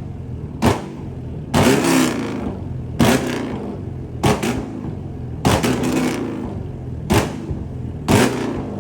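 A car engine blipped hard over and over, each short rev rising and falling, with loud sharp exhaust bangs about once every second or so: the pops of a flame tune.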